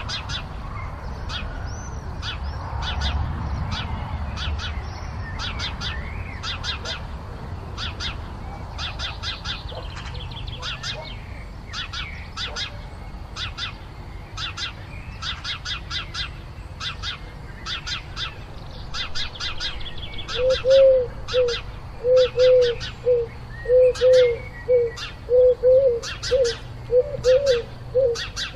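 Small birds chirping with short, sharp repeated notes. From about two-thirds of the way in, a dove coos in a repeated low phrase, the loudest sound by the end.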